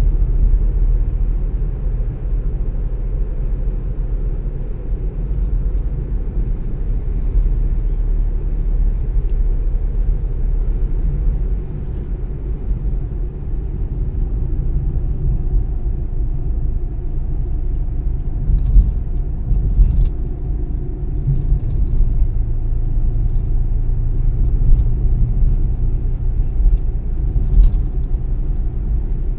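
Car driving at a steady speed: a low, steady rumble of road and engine noise, with scattered small clicks and knocks in the second half.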